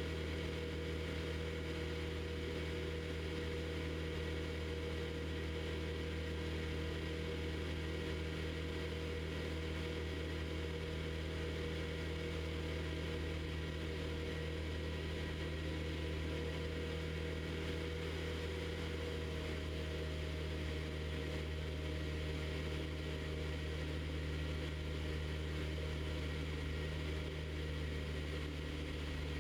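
Piper Super Cub floatplane's engine and propeller running steadily, a constant, even drone.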